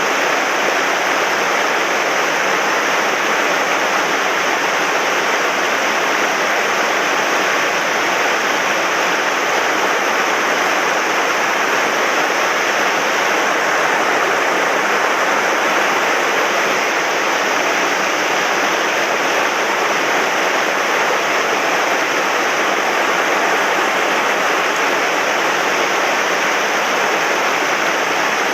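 Swollen mountain stream after heavy rain rushing and churning steadily, a loud, even roar of fast water.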